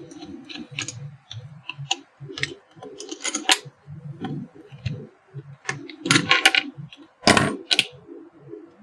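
Small metal parts of an electric iron being handled and fitted back together: irregular sharp clicks and metallic taps, with the loudest clatter a little before the middle and about three-quarters through.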